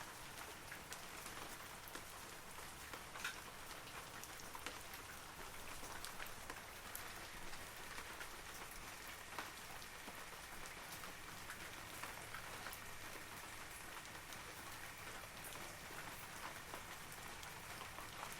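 Steady rain falling on forest foliage, a continuous patter with many individual drops ticking distinctly through it.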